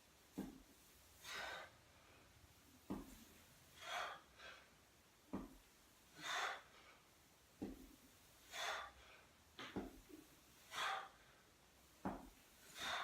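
A man breathing out hard in a steady rhythm while doing deadlifts with a weight plate, one forceful exhale roughly every two and a half seconds. Each breath comes about a second after a short, soft knock.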